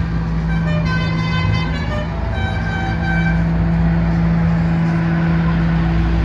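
Vehicle horns sounding in two held blasts, the second at a different pitch, over the steady hum of running engines.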